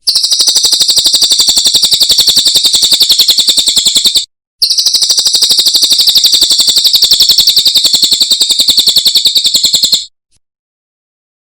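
Cililin bird singing: a fast, high, chattering trill of many rapid repeated notes, in two long runs split by a brief break, stopping suddenly near the end.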